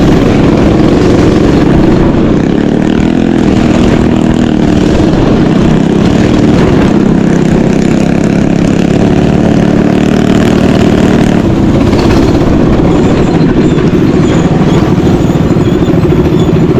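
A mini bike's small engine running hard and loud, its pitch rising and falling a little as the throttle changes.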